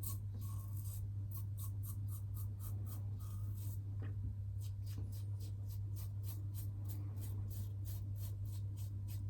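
Double-edge safety razor (Karve Christopher Bradley with a Gillette Super Thin blade) scraping through about a day's stubble under shaving lather in a quick series of short strokes, several a second. A steady low hum runs underneath.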